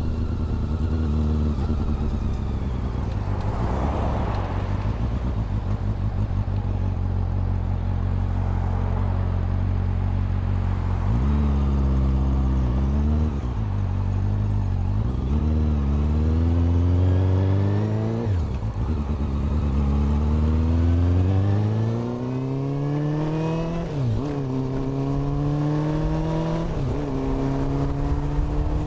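Honda CB400 Super Four inline-four engine and exhaust running steadily for about the first ten seconds, then pulling away, its revs rising and dropping sharply at each of several upshifts.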